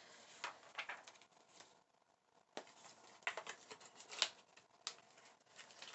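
Faint rustling and a scattered series of light clicks and taps as small items and packaging are handled.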